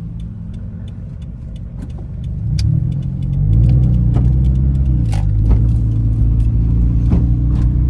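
Car engine running at low speed, growing louder about three seconds in and then holding a steady low drone.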